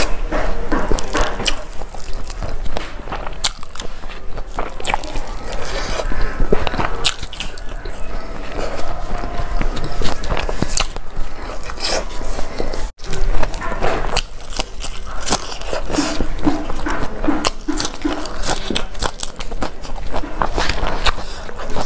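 Close-miked eating sounds: chewing and wet smacking of a mouthful of rice and fried chicken eaten by hand, with many small crisp clicks at an uneven pace.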